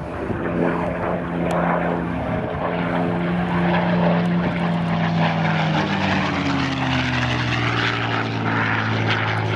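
Propeller-driven piston-engine warplane flying past, its engine note steady at first, then dropping in pitch about six to seven seconds in as it goes by.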